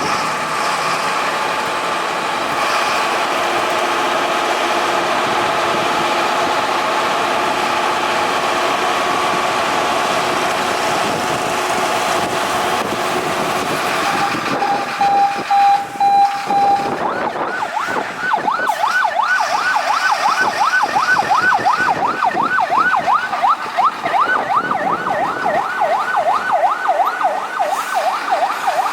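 Fire truck siren being demonstrated: a steady, slightly wavering tone for the first half, a short steady beep, then from about halfway a fast yelp sweeping up and down several times a second.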